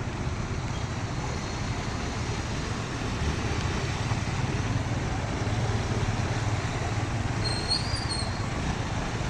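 Steady rain falling: an even hiss with a deep, constant low rumble underneath. A brief high whistle sounds about eight seconds in.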